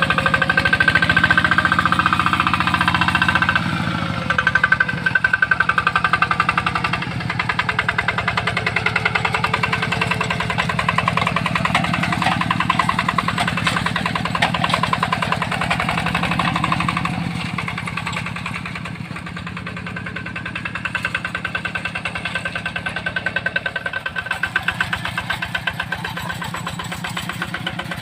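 Yanmar tractor's diesel engine running steadily with an even, rapid firing beat, its loudness swelling and easing now and then.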